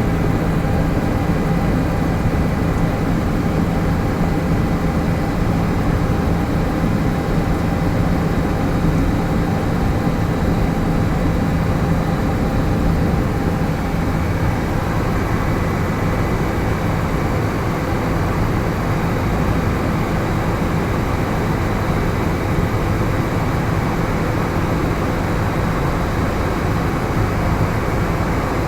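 Helicopter in flight: a steady drone of engine and rotor with a few constant tones held throughout.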